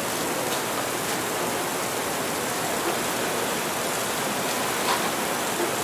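Steady rain falling, an even hiss, with a few faint light clicks or clinks in the background.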